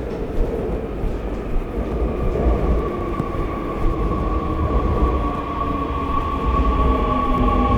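Seoul subway train running, with a steady low rumble and an electric motor whine. A steady tone grows in about two seconds in, and from about three seconds in a lower tone falls steadily in pitch.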